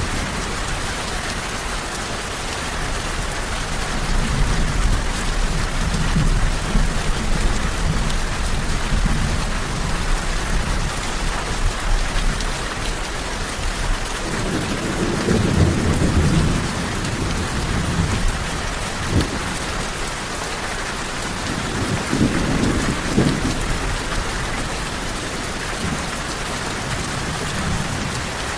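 Steady rain falling, with low thunder rumbling at times, strongest about halfway through and again near the end.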